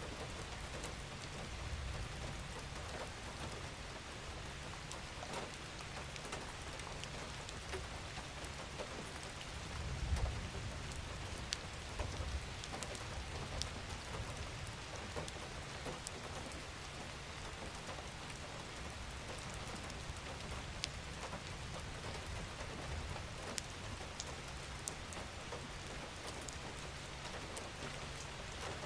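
Steady gentle rain falling on a surface, with fine drop ticks scattered through it. Underneath is a low rumble that swells briefly about ten seconds in and again near the end.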